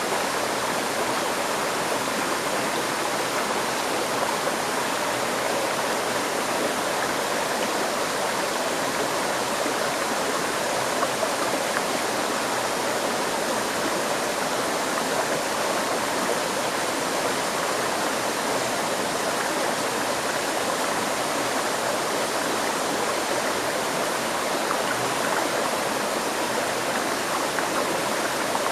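Stream water flowing steadily over rocks: an even, unbroken rushing with no change in level.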